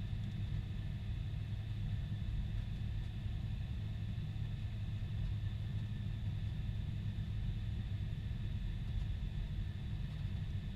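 Boeing 747-400 in flight, heard from inside the cabin: a steady low rumble of engine and airflow noise with a faint constant whine above it.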